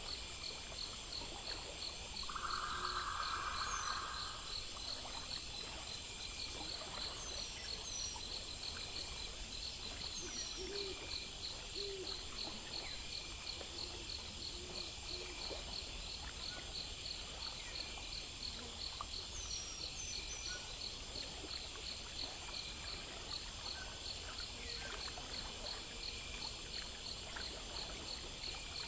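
Night insect chorus of crickets chirping in a steady, even pulse over a constant high hiss. A brief hiss about two seconds in is the loudest moment, and a few faint low calls come around ten to fifteen seconds in.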